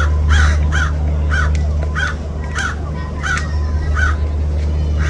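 Blue-and-gold macaw giving a string of short, harsh squawks, about one or two a second, over a steady low hum.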